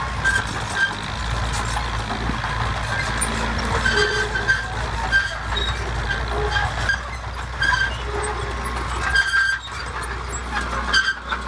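Heavy diesel earthmoving machinery running with a steady low rumble. Short high-pitched squeaks come and go irregularly over it.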